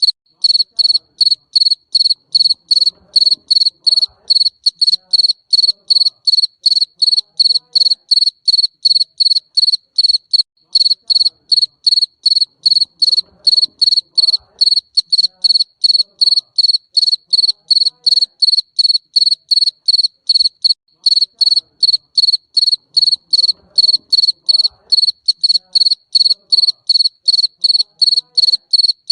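Garden cricket chirping steadily: a loud, high, pure-toned chirp repeated evenly at about three chirps a second.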